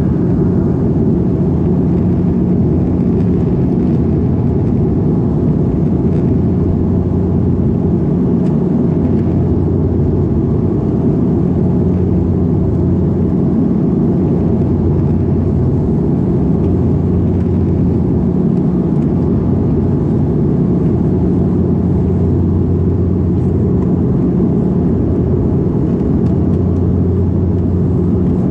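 Cabin drone of a Dash 8-400 turboprop from a window seat: its two propellers and engines running steadily, a loud low hum whose deepest note slowly swells and fades.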